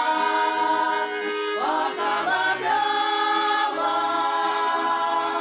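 Women's folk vocal ensemble singing in harmony, holding a long chord at the end of a sung line, then moving into a new phrase about a second and a half in.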